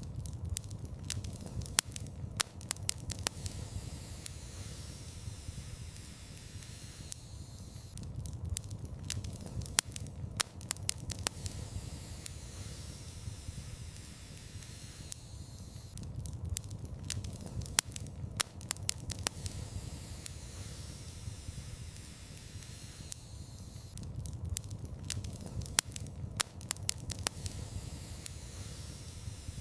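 Fire in a fireplace crackling and popping over a low rumble and soft hiss. Clusters of sharp pops come about every eight seconds, the same pattern repeating each time.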